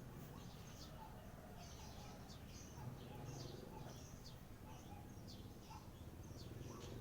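Small birds chirping, a rapid scatter of short high calls that overlap throughout, over a faint low steady hum.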